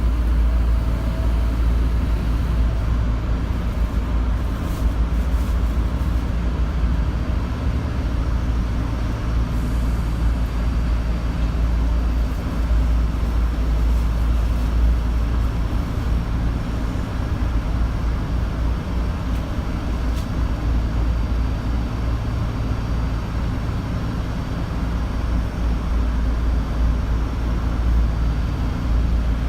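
Tokyo Metro 02 series subway train, with a steady deep rumble that holds level throughout.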